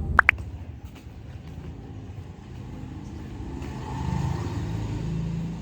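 Two quick high rising chirps about a quarter second in, then the steady low rumble of a car running.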